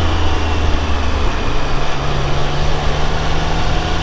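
Triumph Speed Triple 1200 RR's inline three-cylinder engine running on the move, under heavy wind rush over the microphone; the engine note steps up in pitch a little under two seconds in.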